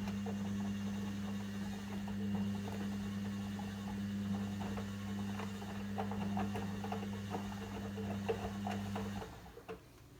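Logik L712WM23 washing machine's motor humming as it turns the drum, with irregular small clicks and pattering of the load tumbling. The motor stops about nine seconds in, when the drum pauses in its wash action.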